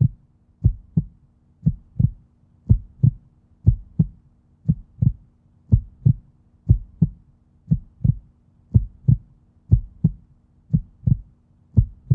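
A slow heartbeat, each beat a low double thump (lub-dub), about one beat a second, over a faint steady hum.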